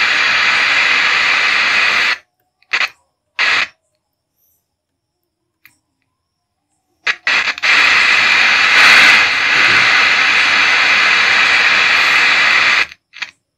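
FM radio hiss of static between stations, played through a loudspeaker by a 4440 IC amplifier board that now works after repair. It cuts off abruptly about two seconds in and crackles back twice briefly as the speaker lead is connected. After a few seconds of silence it returns for about five seconds and cuts off again near the end.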